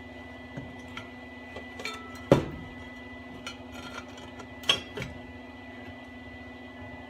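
Scattered metal clinks and knocks from exhaust pipe pieces and tools being handled, with two louder clanks about two and four and a half seconds in, over a steady low hum.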